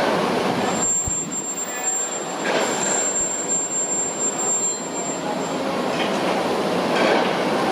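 Heavy construction machinery running steadily at a foundation dig, with a thin high-pitched whine from about a second in until past halfway.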